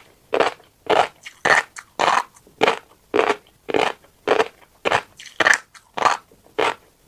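Close-up chewing of a mouthful of tiny crunchy black seeds: steady, evenly spaced crunches, about two a second.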